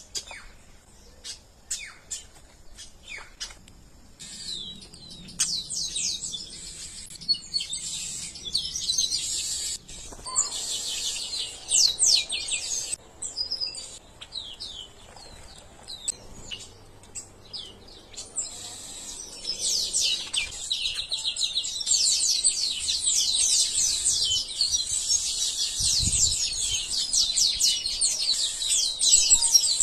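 Small birds chirping and twittering in quick high notes, scattered at first, then a dense, overlapping chatter that grows louder from about twenty seconds in.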